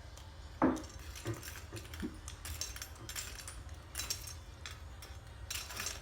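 A single knock just over half a second in, then scattered light clicks and several short rustling noises, over a steady low hum.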